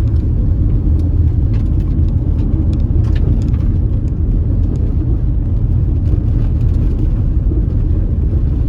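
A car driving: a steady low rumble of road and engine noise, with faint scattered ticks over it.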